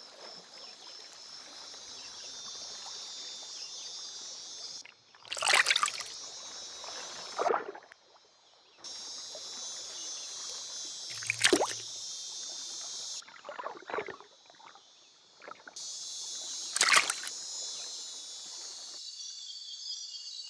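Rainforest ambience: a steady, high insect buzzing that cuts out and back in abruptly several times, broken by about five short, loud splashes or sloshes in water.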